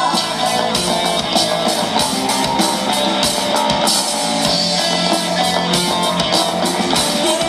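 Live rock band playing an instrumental passage with electric guitar and a drum kit keeping a steady beat.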